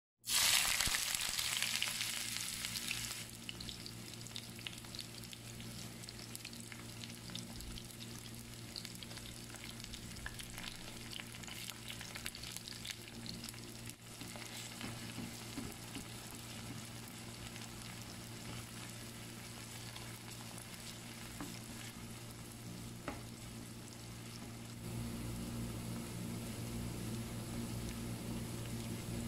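Sliced onions, dried red chillies, green chillies and curry leaves frying in hot oil for a tarka. It sizzles loudest for the first three seconds, then settles into a steady sizzle, with a wooden spoon stirring near the end.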